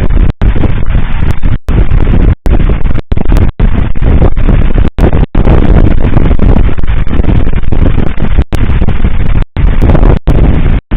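Fireworks display booming, recorded overloaded and distorted, with wind buffeting the microphone; the sound cuts out for an instant about a dozen times.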